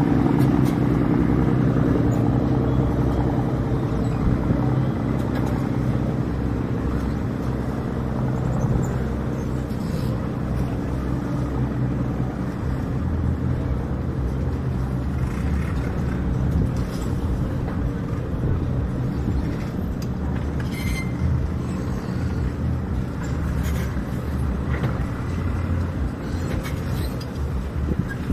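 Diesel boat engine running with a steady low drone that is loudest at first and eases off over about ten seconds; a deeper rumble comes up about halfway through.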